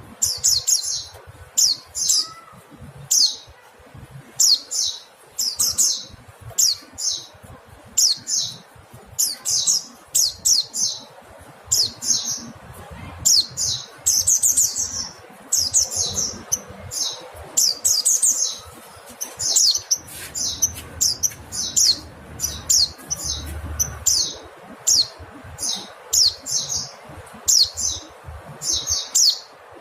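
Mountain white-eye (Zosterops montanus) calling: short, high calls, each a quick run of notes, repeated about once a second, some in close pairs.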